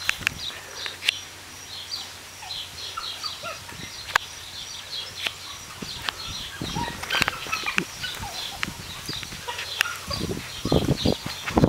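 Small birds chirping in quick, scattered notes, with a few sharp clicks and, near the end, low rustling thumps.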